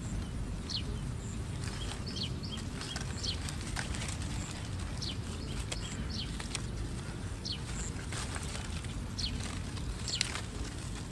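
Short falling bird chirps, roughly one a second, over a steady low rumble.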